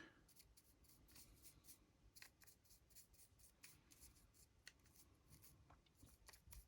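Faint, scratchy ticks of a paintbrush dabbing and dragging paint across a 3D-printed model's surface, several strokes a second.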